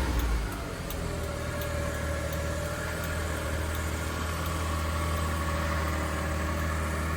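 Suzuki Carry kei truck's small 660 cc three-cylinder engine dropping back from a rev and settling into a steady idle about a second in.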